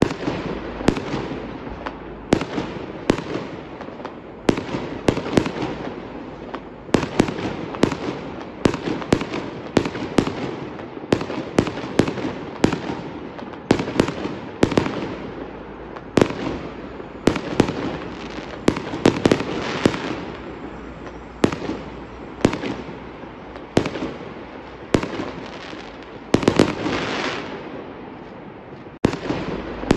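Fireworks display: aerial shells bursting in a rapid, irregular run of sharp bangs, often several a second, with a rumble between them.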